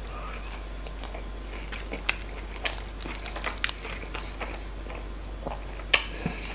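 Close-up eating sounds of a person biting into and chewing a chicken dürüm wrap: wet mouth noises with scattered short, sharp clicks and crunches, one louder click about six seconds in.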